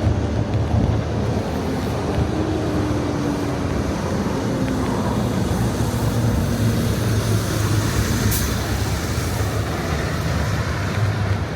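Steady road traffic noise, a low rumble with the faint drone of passing vehicle engines, and a brief sharp tick about eight seconds in.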